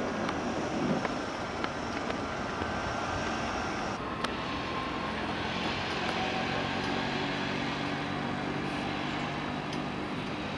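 Steady jet engine noise from the Blue Angels' F/A-18 Hornets, changing abruptly about four seconds in and then settling into a steady drone.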